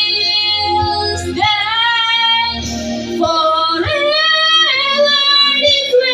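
A high singing voice holding long notes that change pitch every second or two, over a backing track.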